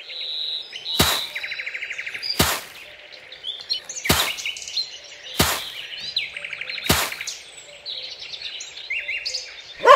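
Birds chirping and trilling, broken by five sharp knocks spaced a little over a second apart.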